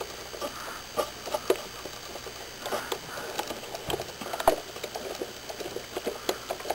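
Small irregular clicks and light scraping as a long screw is threaded by hand through spacers into an RC rock crawler's 3-link suspension mount. The sharpest click comes about four and a half seconds in.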